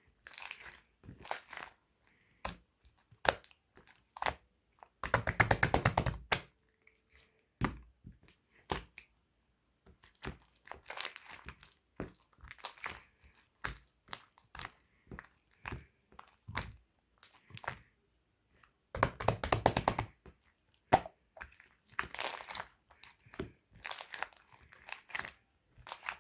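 Slime being squished and pressed by hand, giving irregular sticky clicks and bubble pops. Two longer runs of rapid crackling come about five seconds in and again about twenty seconds in.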